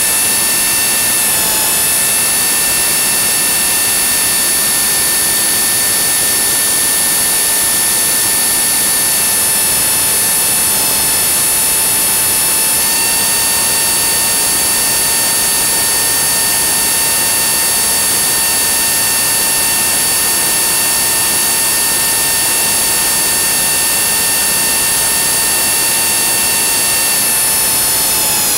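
Blade 300 X electric RC helicopter's brushless motor and rotor head whining at a steady high pitch, with brief wobbles in the pitch, then the pitch falls near the end as it spools down.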